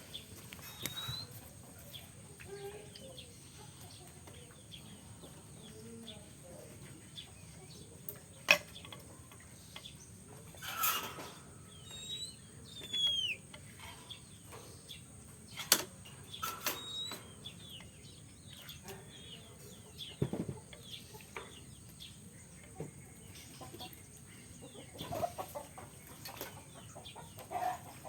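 Oriental magpie-robin bathing in a cage bath, fluttering its wings in the water in short bursts. A few sharp clicks and short falling chirps are heard too.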